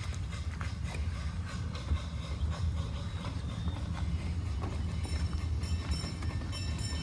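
Ridable miniature train running along the track: a steady low rumble with scattered light clicks from the wheels on the rails.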